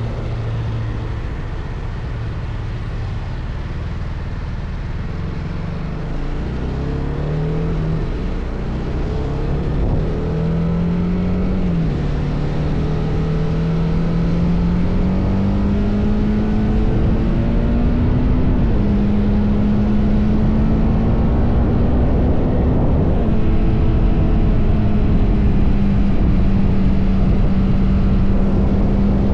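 TVS Apache RR310's single-cylinder engine through its stock exhaust, pulling up through the gears. Its pitch climbs and drops back at each shift, about three times in the first twenty seconds, then holds steady at a cruise, over a constant rushing noise.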